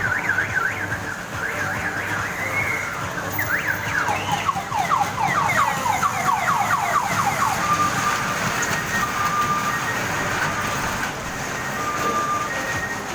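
Electronic alarm cycling through its tones: a fast warble, then a run of quick falling sweeps, then a series of short steady beeps, over a low steady hum.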